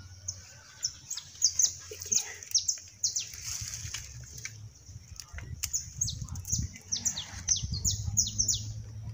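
Small birds chirping in two busy runs of short, high notes that slide downward, over soft knocks and scrapes of a hand tool digging in garden soil to lift carrots.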